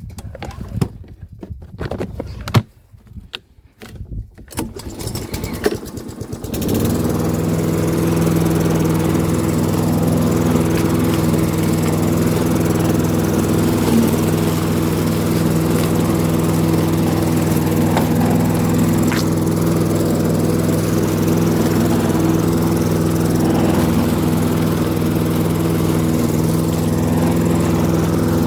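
A small petrol engine starts about six seconds in, after irregular knocks and clatter that quicken into sputtering. It then runs steadily at an even speed.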